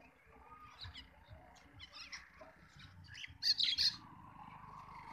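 Birds giving short chirping calls, with a loud cluster of several quick calls about three and a half seconds in.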